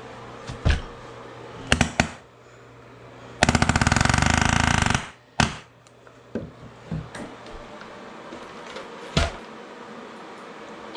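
Pneumatic palm nailer driving a nail: a rapid rattle of blows for about a second and a half, starting about three and a half seconds in. Scattered single knocks and clunks come before and after it.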